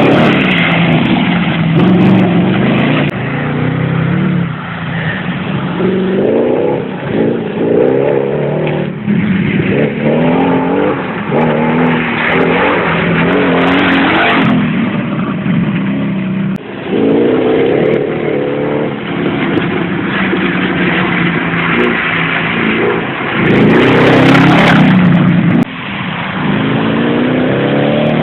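Audi 4.2-litre V8 engine swapped into a Toyota Land Cruiser 70, pulling hard as the vehicle accelerates: the engine pitch climbs and drops back again and again as it goes up through the gears.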